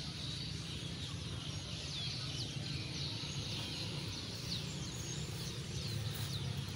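Outdoor ambience picked up by a smartphone's microphone: birds chirping in short high calls, about one or two a second, over a steady low rumble.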